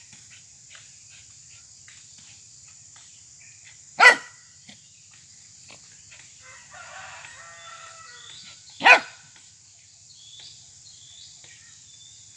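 A dog barks twice, single short loud barks about five seconds apart.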